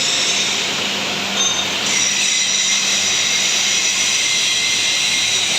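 Diesel-engine hydraulic soil interlocking brick-making machine running steadily: a constant low hum under a loud, even hiss.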